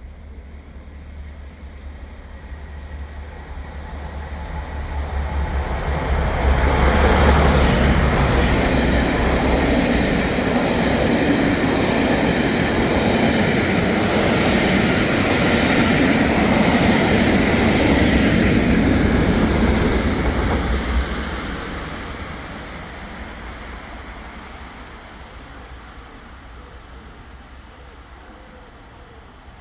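A train passing through at speed: a deep rumble that builds over several seconds, stays loud for about fourteen seconds, then fades away.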